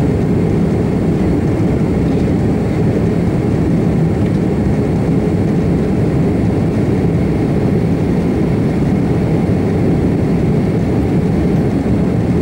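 Airbus A330-300's General Electric CF6 turbofan engines running steadily at high power, a loud, even rumble with no change in pitch or level.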